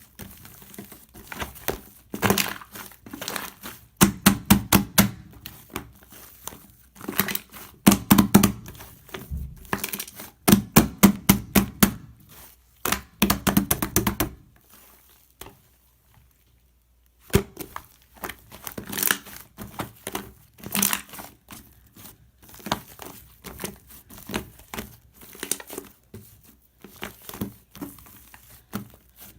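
Fluffy shaving-foam slime being squished and stretched by hand, giving dense bursts of sharp crackling and popping from trapped air. The crackling is loudest in the first half, stops for about three seconds in the middle, then returns lighter.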